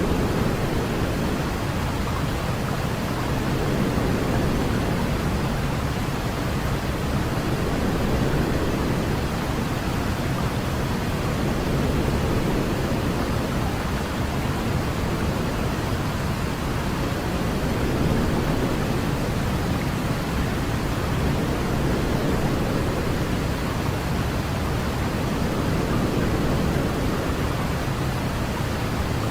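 Steady white-noise sleep sound, heavier in the low end like pink noise, with slow gentle swells every few seconds.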